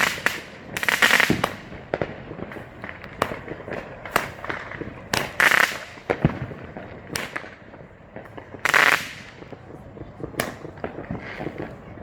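Consumer fireworks going off: a string of sharp bangs at irregular intervals, with three longer, louder bursts about a second in, about halfway through and about three-quarters through.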